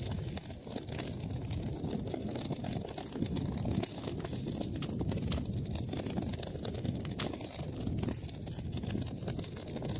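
Wood fire crackling in a fireplace: a steady low rush of burning under many small snaps, with one sharp pop about seven seconds in.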